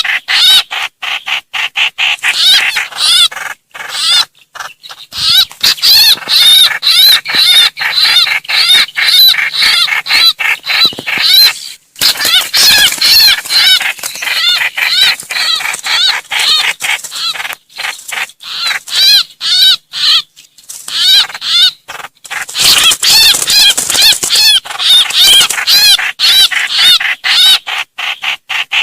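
Trao trảo bird giving its distress call, the cry that calls the flock: a rapid, near-continuous string of short, high calls with a few brief breaks.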